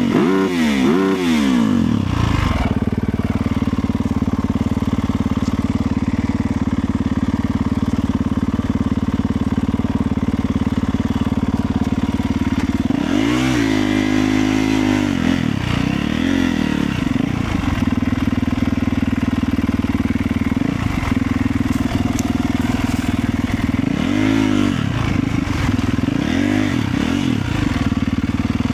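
Motorcycle engine running steadily while riding, with several revs that rise and fall in pitch: about a second in, around the middle, and twice near the end.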